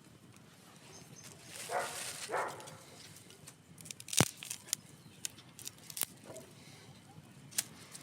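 Wood campfire crackling: irregular sharp pops and snaps over a faint hiss, the loudest pop about four seconds in. Two brief rough rustling bursts come just before the two-second mark.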